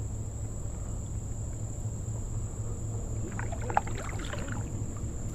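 Faint calls of distant birds, a cluster of short pitched cries and rattles about three seconds in, over a steady low hum.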